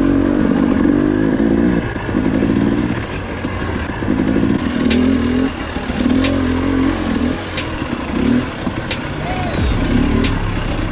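Two-stroke KTM dirt bike engine revving in repeated bursts, pitch climbing and dropping about once a second as the rider blips the throttle on rough single-track, with sharp knocks and clicks scattered through.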